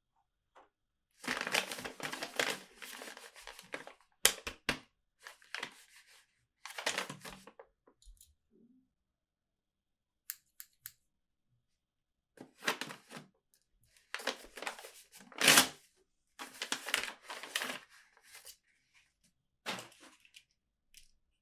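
Toy packaging being torn open and crinkled by hand, in several short spells of tearing and rustling with a few sharp snaps between them.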